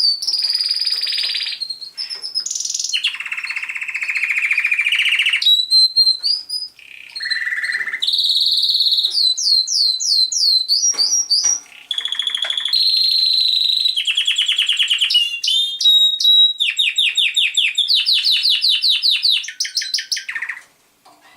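Male canary singing one continuous song, a string of rapid trills and repeated whistled notes that changes phrase every second or two and stops just before the end. This is his shorter song, which kind of sounds like a police whistle.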